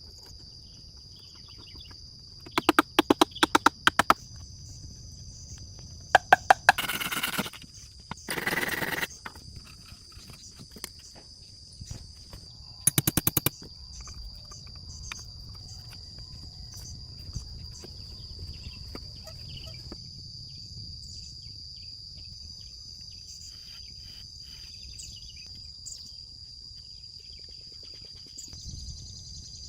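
Insects trilling steadily at a high pitch, with four short bursts of rapid knocking, the loudest sounds, in the first half.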